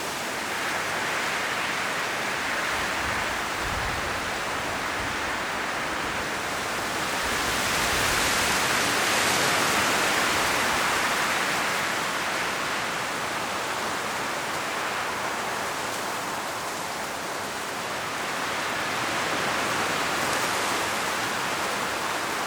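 Strong wind blowing through autumn forest trees, leaves rustling in a steady rush that swells in gusts, loudest about eight to eleven seconds in and again near the end.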